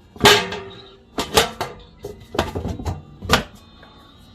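Hard knocks and clatter of objects being handled: a loud knock just after the start, then more in short quick runs, the last about three seconds in.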